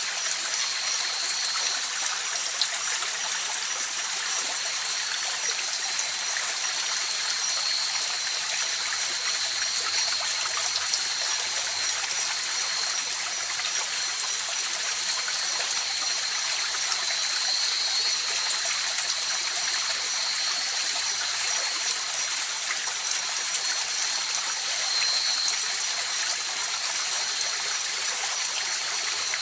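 A river flowing steadily, an even rushing and trickling of water. A steady high-pitched trilling runs over it throughout.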